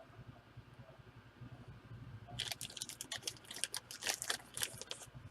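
Trading cards and their packaging being handled: a run of quick crackles and clicks starting about halfway through, after a quiet first half.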